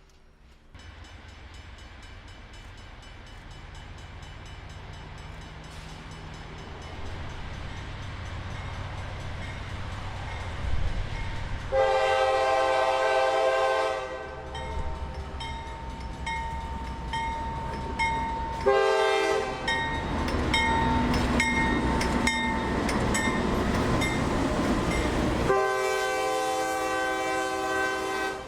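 CSX diesel freight locomotive approaching, its engine rumble growing steadily louder, while its multi-tone air horn sounds three times: a long blast, a short one, then another long one.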